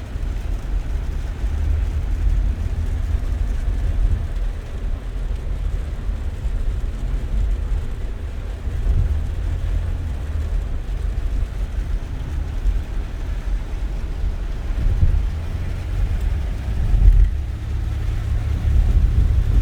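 A car driving, with a steady low rumble of engine and road noise that swells briefly a couple of times near the end.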